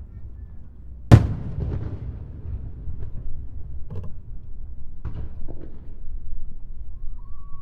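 Aerial fireworks shells bursting over a continuous low rumble. One sharp, loud boom comes about a second in and trails off into crackle, followed by several smaller booms.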